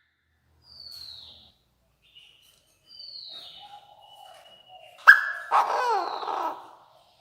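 Chinese francolin calling: a loud harsh call with a downward sweep about five seconds in, lasting over a second, after a few faint high falling whistles.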